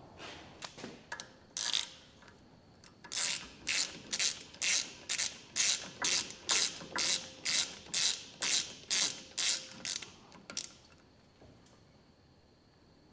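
Hand ratchet wrench worked back and forth to drive in the retainer bolt on a Toyota Hilux free-wheel hub: a few loose clicks, then a steady run of clicking bursts about twice a second for some seven seconds before it stops.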